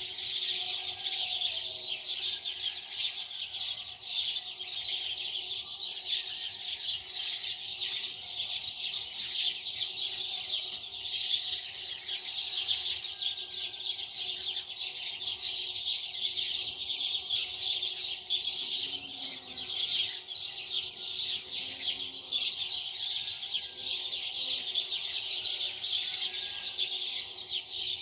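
Many small birds chirping densely and continuously, with a faint steady hum underneath.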